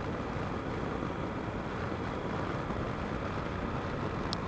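Yamaha Super Tenere motorcycle under way: steady wind rush and engine and road noise on the rider's microphone, with a small click near the end.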